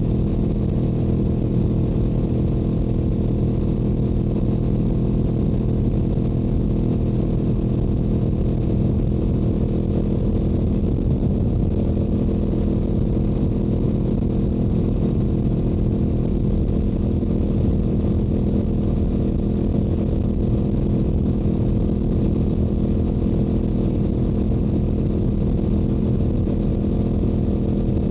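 Yamaha R7's stock exhaust from its 689 cc parallel-twin engine, running steadily at highway cruising speed with no change in revs.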